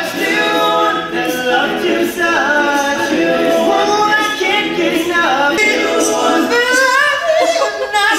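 A cappella vocal group singing in harmony, several voices together with no instruments.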